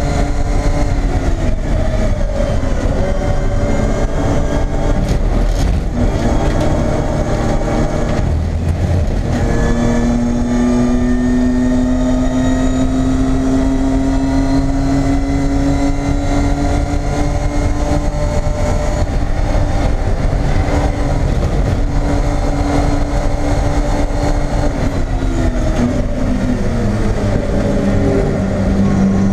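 BMW E30 race car's engine heard from inside the stripped cabin, running hard at racing speed. Its pitch climbs slowly through long pulls in each gear and drops briefly about a second in, again around eight seconds in, and once more near the end as the car slows.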